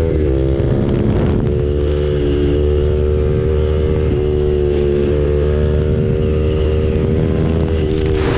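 KTM RC 390's single-cylinder engine through an SC Project aftermarket exhaust, running under way at a steady cruising rev after a brief dip in revs at the start. A short burst of rushing noise comes near the end.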